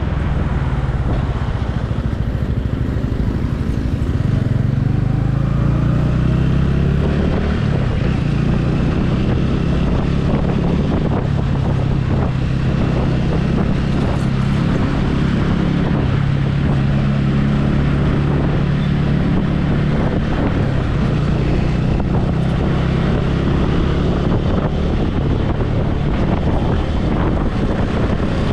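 Motorcycle engine running while riding, with heavy wind rushing over the helmet-mounted microphone. The engine note climbs in pitch over the first few seconds, then holds steady.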